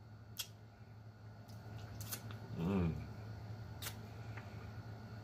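A person chewing chicken feet with the mouth closed, making a few sharp wet mouth clicks, with a short hummed "mm" of falling pitch about two and a half seconds in.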